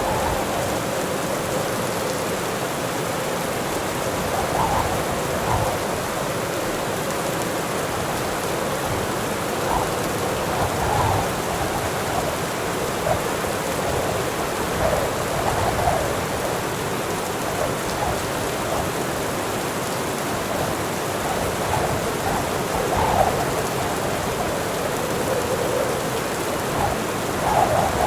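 Heavy rain pouring steadily, with splashing drops, and a low rumble of thunder swelling near the end.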